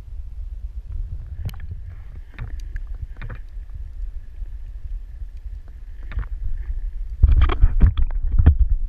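Underwater recording: a steady low rumble with scattered sharp clicks and a faint steady high tone, then a loud cluster of rushing bursts about seven seconds in.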